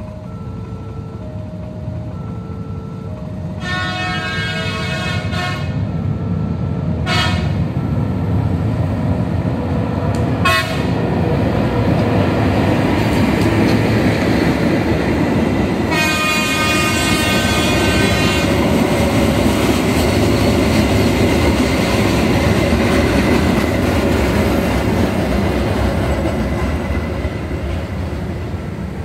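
A level-crossing warning signal beeping in an alternating two-tone pattern, then a passenger train sounding its horn as it goes over the crossing: a long blast, two short ones, then another long blast about halfway through. The train's rumble builds, stays loud for a long stretch and fades near the end.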